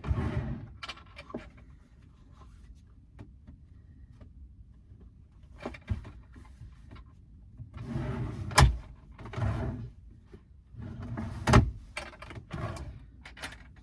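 Rustling and handling noises inside a small van as someone moves about and gets dressed, with two sharp knocks about three seconds apart standing out as the loudest sounds.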